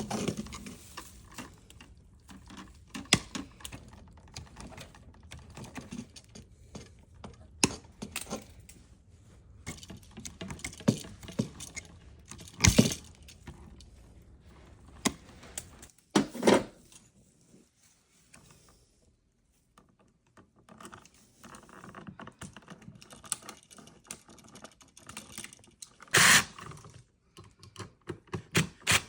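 Irregular clicks, clatter and knocks of hand tools and metal and plastic parts being handled while a ceiling fan box is installed and a ceiling fan is assembled. A few much louder sharp knocks stand out, about a third of the way in, at about the middle, and near the end.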